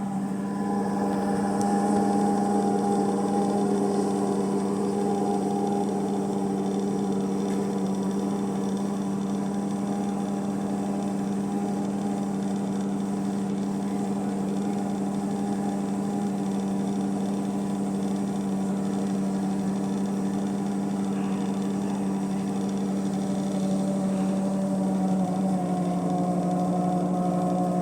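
Drain pump of an Electrolux LTE12 washing machine running with a loud, steady humming drone. The pump still works, but it is noisy.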